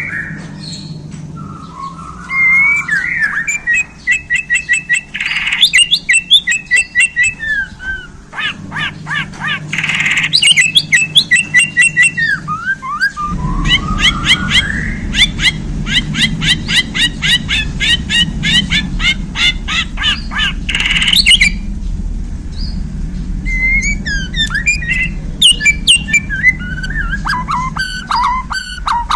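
Bornean white-rumped shama (murai batu) singing a long, loud, varied song: phrases of rapid repeated notes and trills alternating with rising and falling whistles. A low steady hum underlies it and grows louder about halfway through.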